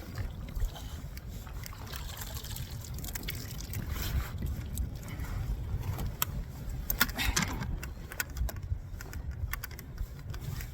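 Wind rumbling on the microphone aboard a small fishing boat, with water lapping at the hull and scattered sharp ticks.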